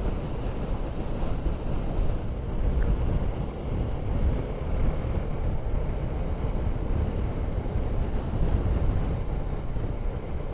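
Wind buffeting the microphone over a KTM 390 Duke's single-cylinder engine at a steady riding speed: a continuous low rumble with no clear gear changes.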